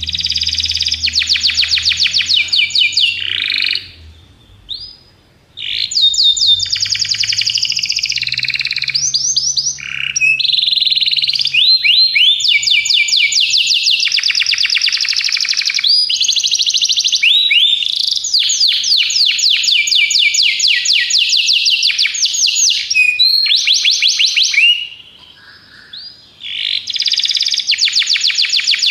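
Domestic canary singing long, fast trills of rapidly repeated high notes, rolling from one trill into the next, with two short pauses.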